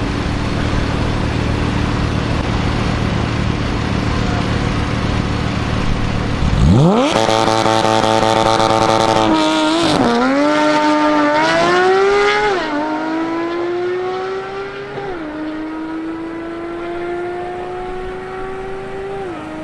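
A performance car's engine at a steady low rumble, then, about six seconds in, revving up hard under full acceleration and pulling through several quick upshifts, each a sudden drop in pitch followed by another rising climb.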